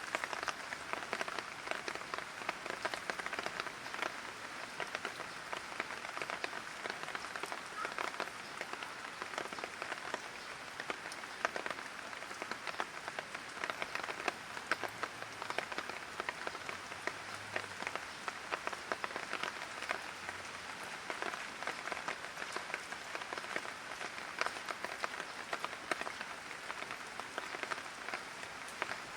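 Light rain falling steadily, a dense patter of many small drops ticking on hard surfaces.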